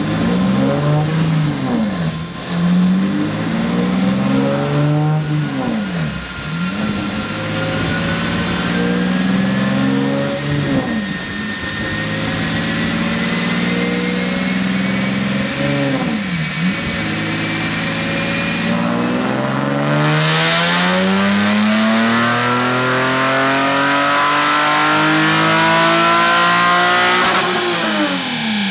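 Hyundai Genesis Coupe race car's engine running on a chassis dyno: several short revs that rise and drop back, then a long pull with the pitch climbing steadily for about fifteen seconds. Near the end it falls off sharply as the throttle comes off.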